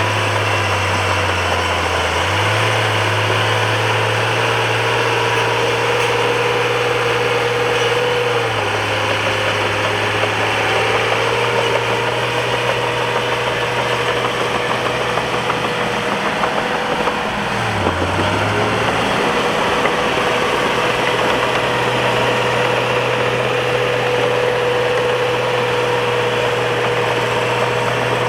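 Bulldozer diesel engine running steadily while the dozer works, its pitch dipping and recovering three times as the load changes.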